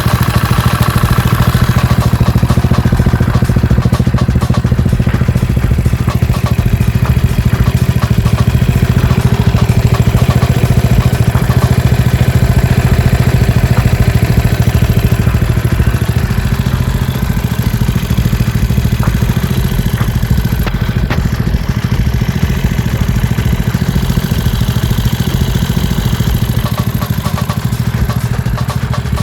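Engine of a Yamaha Mio automatic scooter, a single-cylinder four-stroke built up as a grasstrack bike, running steadily with a loud, pulsing note likened to a klotok boat engine; it eases slightly about halfway through.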